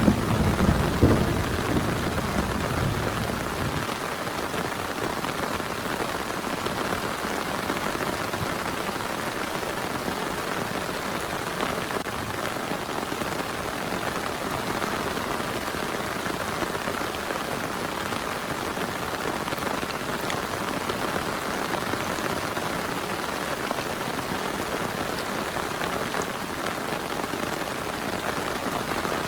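Heavy rain falling steadily in an even hiss. The tail of a thunder rumble dies away over the first few seconds.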